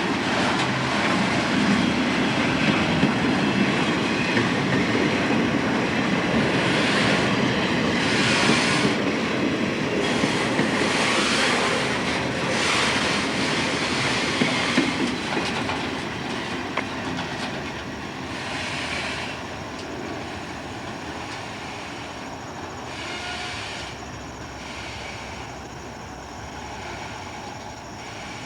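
Train rolling past with the cars clattering over the rail joints and brief spells of high wheel noise. The sound fades gradually through the second half as the train moves away.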